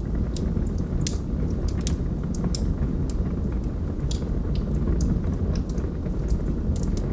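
Logs burning in a fireplace: a steady low roar of flame with frequent irregular crackles and pops.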